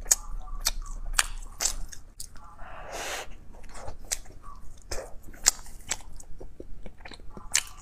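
Close-miked chewing of soft, chocolate-filled bread: a run of wet mouth clicks and smacks, with a short breathy sound about three seconds in.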